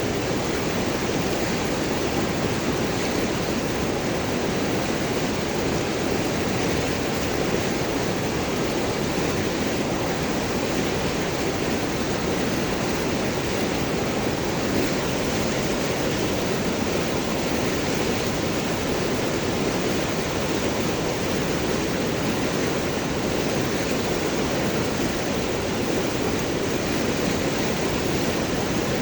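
River water rushing and gurgling over and around large rocks, a steady even wash without pauses.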